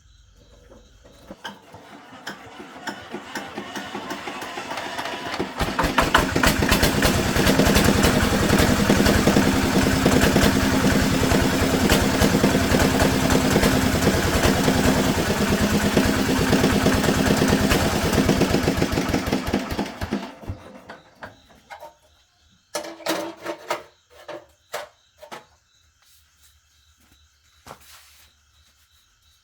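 Tractor engine running: it builds up over the first few seconds, runs loud and steady with a rapid even firing beat for about fourteen seconds, then dies away. A few separate knocks follow near the end.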